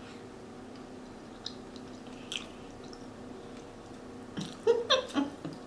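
Close-miked chewing and smacking of food in the mouth, a few soft clicks at first, then a short run of louder wet mouth sounds near the end, over a faint steady hum.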